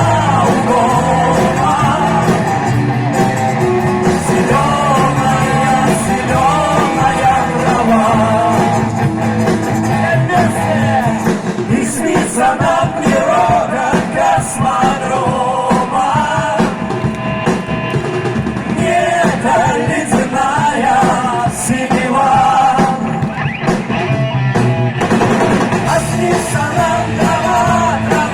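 Live rock music from a vocal-instrumental ensemble playing on stage, with a wavering melody line over guitar and a full low end.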